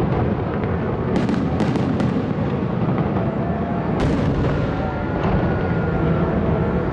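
Fireworks display: a continuous low rumble of many shells bursting. Sharp cracks come about a second in, a few close together near two seconds, and one more about four seconds in.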